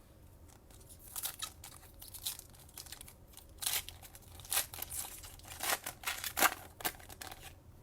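A Panini Chronicles trading card pack wrapper being torn open and crinkled by hand: a run of irregular short crackles and rips.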